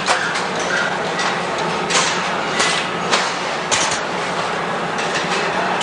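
Factory floor noise in a hand-tool plant: a steady machinery hum and hiss with sharp metallic clanks at irregular intervals.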